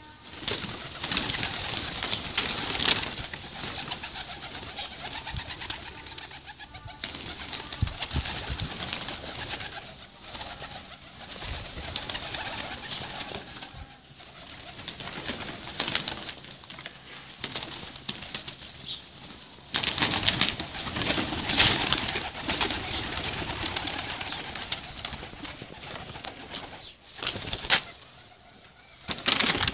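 Pigeons cooing in a small enclosed space, amid a busy rustle of scuffling and short noisy bursts that swell loudest twice.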